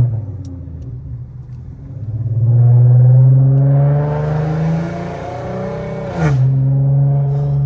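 Infiniti Q50 3.7's V6 through a loud aftermarket exhaust with test pipes: a low, quieter rumble at first, then accelerating hard from about two seconds in with the pitch slowly climbing. Near the end a quick upshift drops the pitch suddenly, and the engine pulls on in the next gear.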